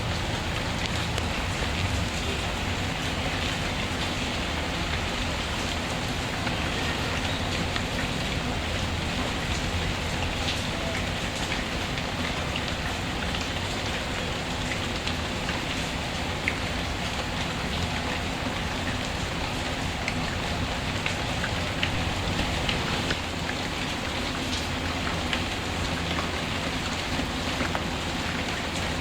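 Steady rain falling, mixed with scattered small crackles and pops of a wood fire.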